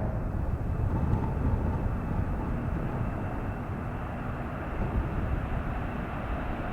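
Jet airliner's engines rumbling after takeoff, easing off as the aircraft climbs away, with a faint steady high whine.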